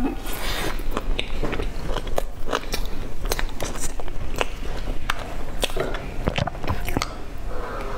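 Close-miked biting and chewing of a soft bun coated in meat floss and seaweed, with a creamy filling. A bite comes near the start, then chewing with many small crackling mouth clicks.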